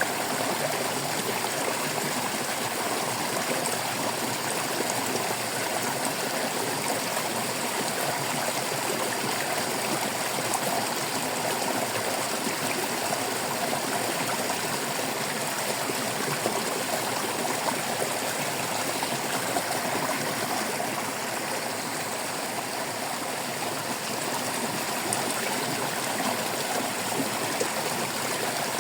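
Stream water flowing and babbling over rocks, steady throughout.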